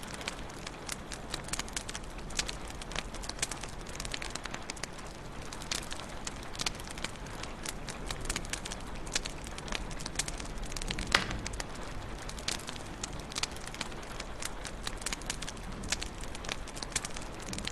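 Wood fire crackling in a fireplace: dense, irregular snaps and pops over a soft steady hiss, with one louder pop about two-thirds of the way through.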